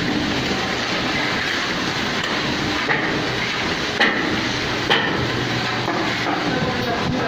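Plastering machine running steadily with a constant rushing noise and a low hum, with three sharp knocks about three, four and five seconds in.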